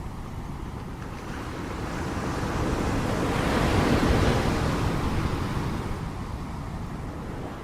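Ocean surf: a wave builds, breaks about four seconds in and washes back, its rush swelling and then fading.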